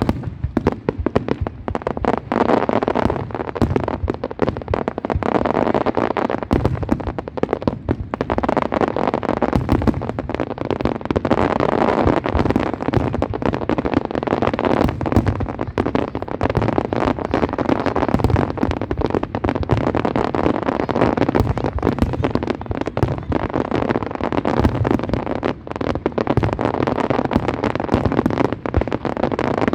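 Fireworks display: a dense, continuous barrage of bangs, booms and crackling with hardly a gap.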